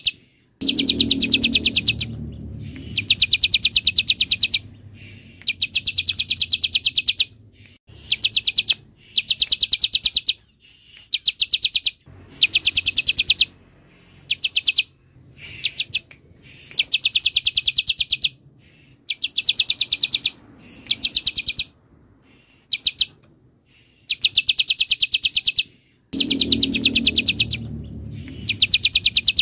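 Ciblek (bar-winged prinia) song: bursts of very rapid, high trilled notes repeated over and over, each lasting up to about two seconds, with short pauses between. A faint low rumble lies underneath near the start and again near the end.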